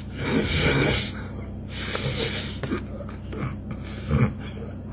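A person breathing loudly through the nose and making eating noises close to the microphone, in several short bursts; the biggest comes near the start and a sharp one near the end.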